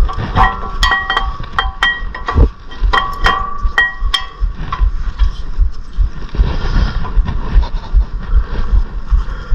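Hand tools and steel brake parts clinking and rattling during work on a minivan's front brake assembly: a quick run of sharp, ringing metal clinks over the first four seconds, then duller scraping and handling noise.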